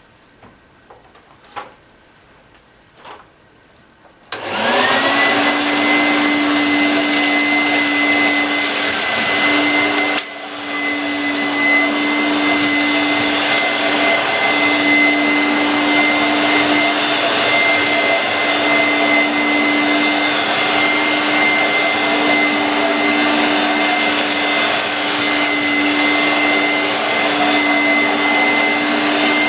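A 1986 Vorwerk VK 117-1H upright vacuum cleaner switched on about four seconds in. Its motor spins up quickly to a steady high whine over a hum and keeps running, with a brief drop about ten seconds in. It is a direct-air design, so everything it picks up passes through the suction fan.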